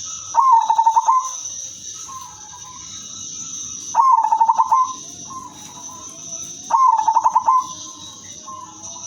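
Female zebra dove (perkutut) cooing: three trilling phrases about three seconds apart, each a rapid stutter of notes followed by a softer, lower tail. A steady high hiss runs underneath.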